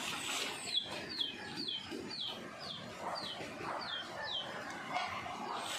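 A bird calling a quick series of about a dozen short, high, down-slurred notes, roughly three a second, starting under a second in and stopping a little past four seconds.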